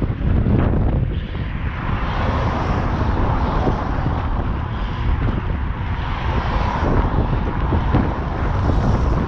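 Strong wind buffeting the microphone while riding a bicycle: a steady, loud, rumbling rush that flutters in loudness.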